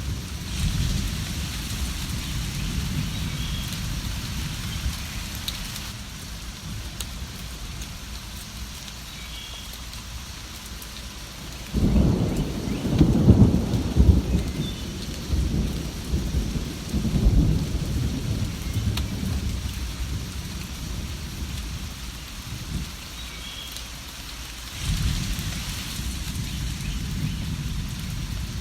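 Steady rain with rolling thunder. A sudden thunderclap about twelve seconds in rumbles on for several seconds, and another low rumble of thunder starts near the end.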